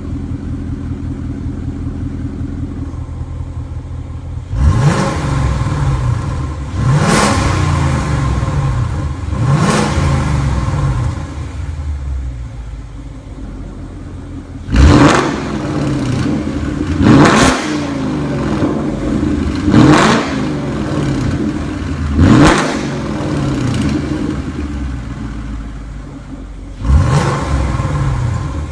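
Ford Mustang GT's 5.0 V8 through an Armytrix aftermarket exhaust, idling and then revved in about seven sharp blips, each rising quickly and falling back to idle. Two lulls at idle separate the blips: one midway, one near the end.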